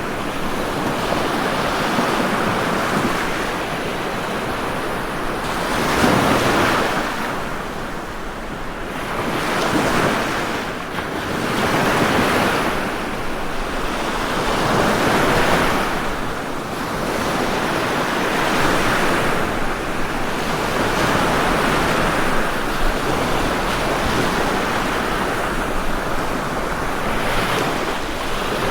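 Ocean surf: waves breaking and washing in one after another, a continuous rush that swells and eases every few seconds.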